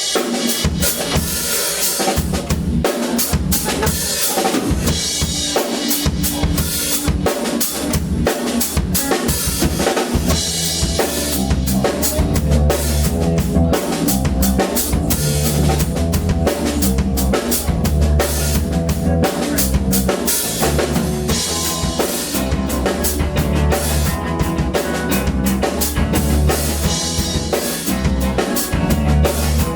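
Live band playing an instrumental passage driven by a full drum kit, with kick, snare and rimshots; a heavy bass line comes in about ten seconds in.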